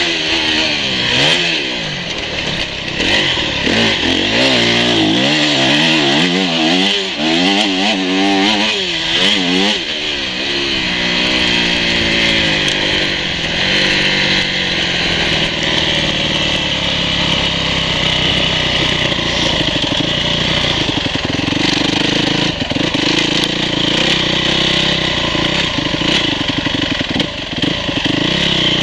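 Dirt bike engine revving up and down through the gears over roughly the first ten seconds, then running at lower, steadier revs for the rest.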